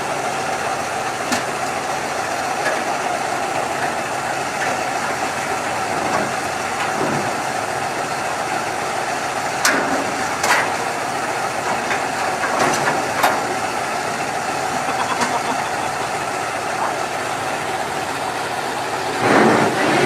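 Dump truck engine running steadily, with a few sharp clicks and knocks now and then and a louder rise near the end.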